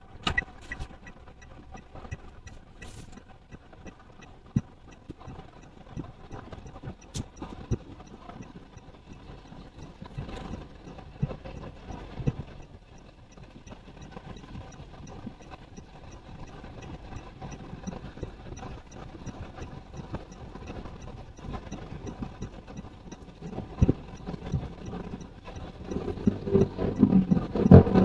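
Small car driving, heard from inside: steady engine and road noise with scattered knocks over bumps and a faint regular ticking about twice a second. A louder low rumble builds near the end.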